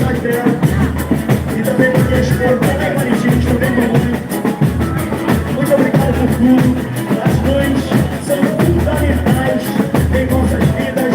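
Boi-bumbá toada played loud by a live band: a steady pounding drum beat with bass, and voices singing over it.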